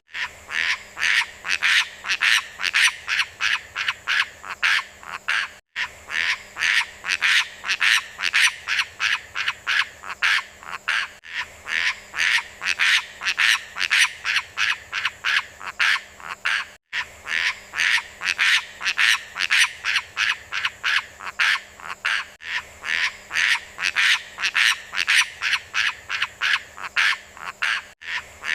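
Beo lumut (moss myna) bird calling: rapid, harsh calls repeated several times a second. Brief silent breaks come about every five and a half seconds, as where a looped recording restarts.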